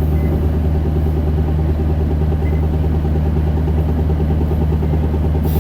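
Interior sound of an Isuzu Erga 2KG-LV290N2 city bus, its four-cylinder diesel engine running steadily. A sudden high hiss starts near the end.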